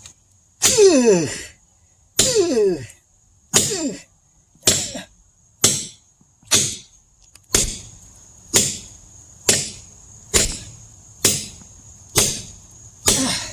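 Heavy hammer striking a metal wedge driven into a log to split firewood: about thirteen ringing metal-on-metal blows, first about a second and a half apart, then quickening to about one a second. The first few blows ring with a tone that falls in pitch.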